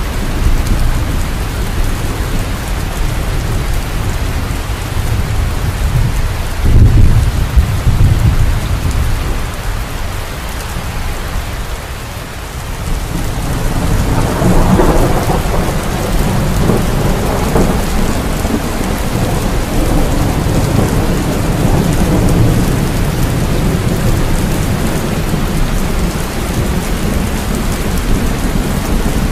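Steady heavy rain with thunder: a loud burst of thunder about seven seconds in, then a long low rumble of thunder rolling through the second half.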